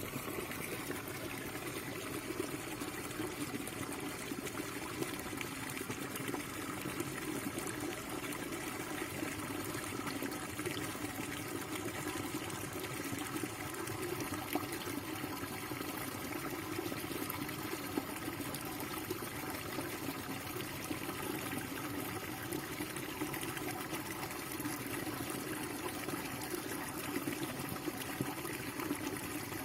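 Water running and pouring steadily without a break.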